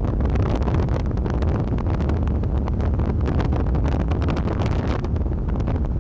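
Wind buffeting the microphone: a steady low rumble with gusty crackle.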